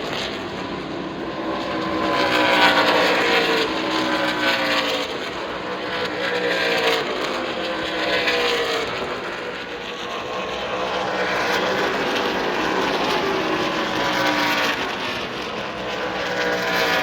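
NASCAR Craftsman Truck Series race trucks' V8 engines going past at racing speed one after another, each engine note dropping in pitch as it passes.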